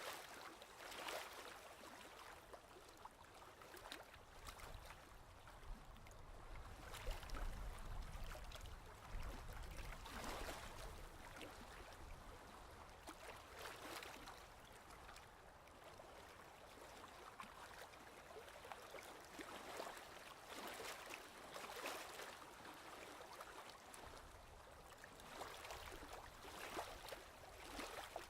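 Ocean waves washing in, faint, swelling and ebbing every few seconds.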